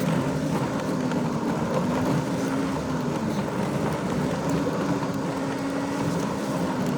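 Vehicle engine running steadily under way on the road, with road rumble. The engine note dips a little in pitch midway and then picks up again.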